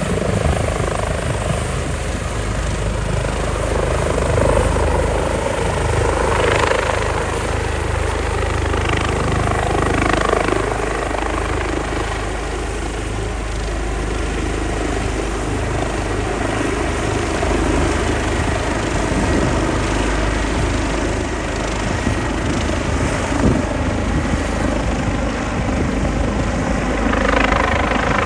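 Airbus EC145T2 twin-turbine helicopter running loud and steady, its rotor and turbine noise swelling and easing slightly without a break.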